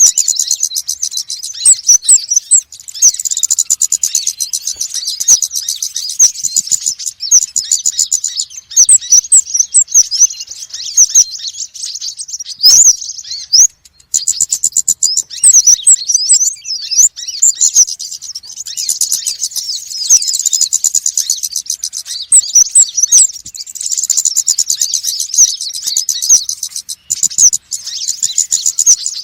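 Konin and wulung sunbirds chirping and trilling in rapid, overlapping high-pitched calls, a busy, noisy chorus of the kind played as a lure call. There is a brief lull about halfway through.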